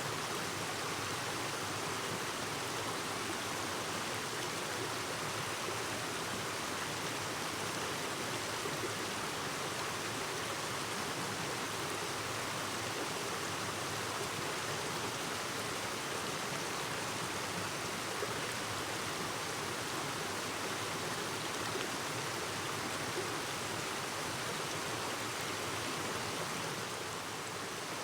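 Clear mountain stream babbling steadily over rocks, an even rush of water.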